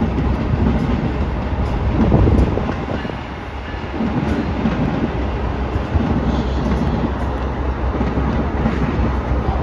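A train running past on the tracks: a steady, loud rumble that dips briefly about three seconds in.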